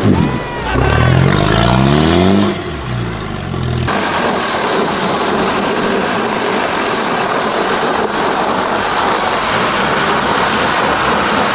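An off-road 4x4's engine revving hard, its pitch climbing and falling over the first few seconds. Just under four seconds in, the sound changes abruptly to a steady, noisy rush.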